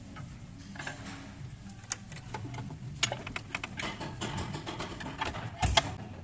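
Hand tools working on a Toyota 1GD diesel engine's metal timing chain cover to get it off: irregular metallic clicks and knocks, with a louder knock near the end.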